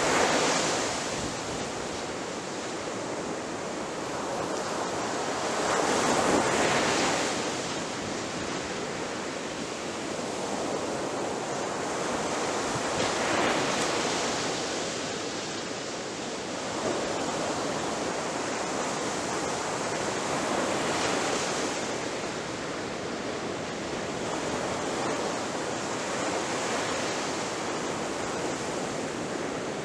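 Ocean waves breaking on a beach, a steady wash of surf that swells as each wave crashes, about every seven seconds.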